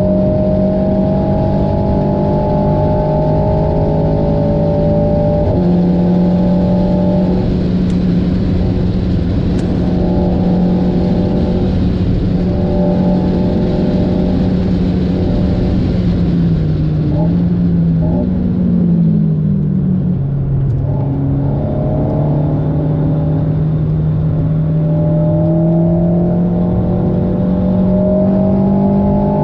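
Alpine A110's turbocharged 1.8-litre four-cylinder engine, remapped to 300 ps, heard from inside the cabin under hard acceleration on a track. There is a gearshift about five seconds in and steady high revs after it. Around 17 seconds in the revs fall as the car brakes for a corner, then climb steadily again as it accelerates out.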